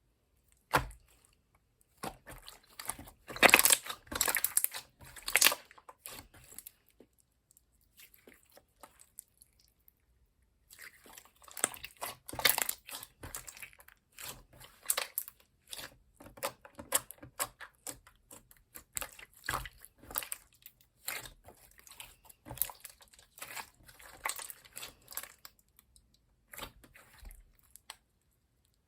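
Clear slime being squished and pressed by hand, giving irregular wet clicks and pops. The clicks come thick in two spells, with a thinner, quieter stretch in between.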